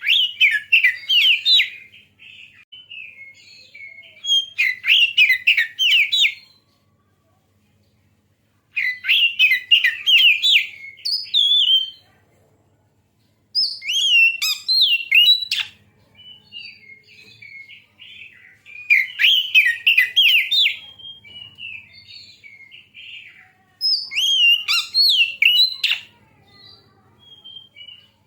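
Oriental magpie-robin (kacer) singing: loud phrases of rapid, sweeping chirps every few seconds, with softer twittering in between.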